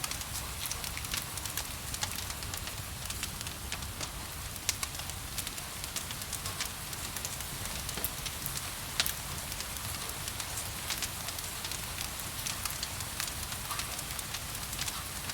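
Wood fire crackling with irregular sharp pops, one louder pop about nine seconds in, over a steady hiss of rain.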